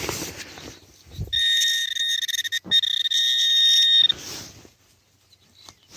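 Metal-detecting pinpointer sounding a steady high tone for about three seconds, broken once briefly near the middle, signalling metal close to its tip while the target is located in the dug soil.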